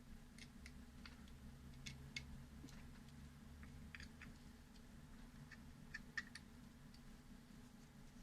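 Faint, scattered light clicks of small parts being handled during reassembly and adjustment of a folding knife, over a steady low hum.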